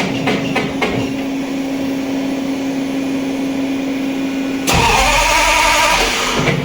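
Car engine running with a steady hum, then a sudden louder blast of about a second and a half near the end that cuts off abruptly.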